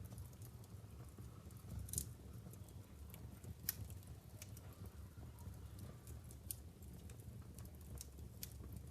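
Wood fire burning in a fireplace: irregular sharp crackles and pops every second or so, the loudest about two seconds and nearly four seconds in, over a low steady rumble.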